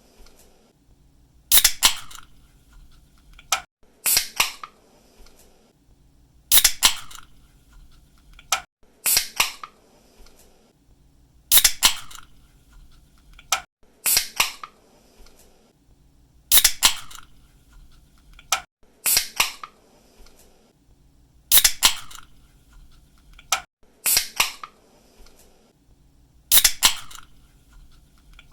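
Aluminium drink can pull tab cracked open over and over: each time a light click, then a sharp snap with a short hiss of escaping fizz. It repeats eleven times at an even pace, about once every two and a half seconds.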